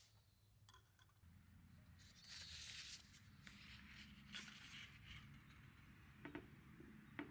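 Near silence: faint outdoor ambience with a few soft clicks and a brief rustle about two seconds in.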